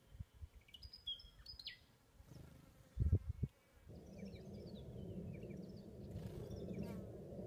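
Birds calling out of sight: short high chirps, then a falling series of notes a few seconds later. A couple of loud low thumps come about three seconds in, and a steady low rumble sets in about a second later.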